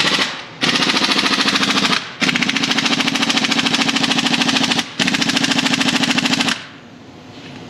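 Impact wrench hammering on a large bolt with a 30 mm socket, in four runs of rapid blows with short pauses between them. The bolt does not break loose.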